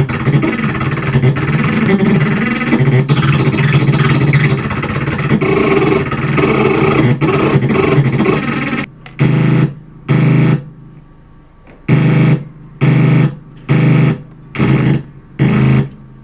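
Homemade DIY noise synthesizer playing a harsh, noisy drone with a low buzzing core. About nine seconds in it cuts off, and seven short blasts of the same sound follow.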